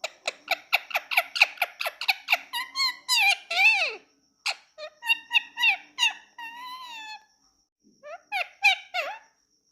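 Indian ringneck parakeet calling: a fast run of sharp, repeated squawks for about two and a half seconds, then several longer squawks that glide up and down, broken by short pauses.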